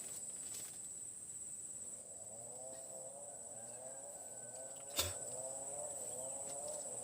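Steady high-pitched buzz of insects in the forest, with a repeating, wavering lower call joining from about two seconds in and a single sharp knock about five seconds in.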